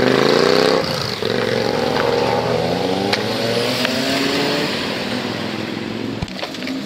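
Car engine accelerating away under load. Its pitch climbs, drops sharply about a second in, then climbs again more slowly as it fades off.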